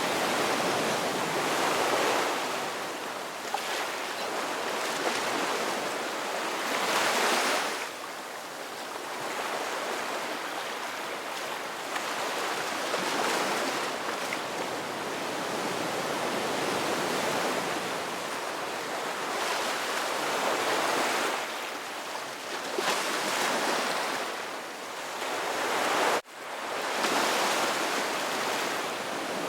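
Ocean waves breaking and washing ashore, swelling and easing every few seconds. The sound cuts out for an instant near the end.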